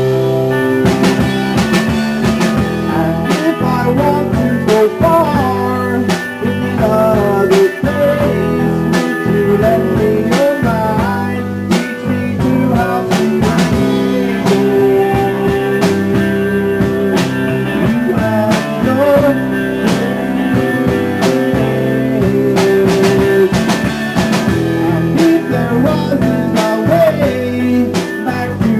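A band playing an instrumental passage of a guitar-led song: guitar lines with sliding notes over a drum kit keeping a steady beat.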